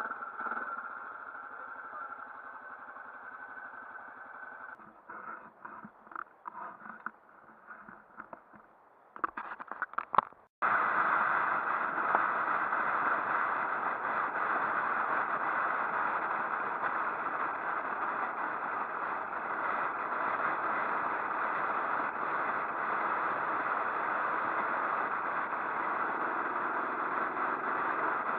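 Motorcycle sounds: a steady engine hum, then a few seconds of broken clattering and clicks. About ten seconds in, a loud, steady rush of riding noise starts suddenly and continues without change.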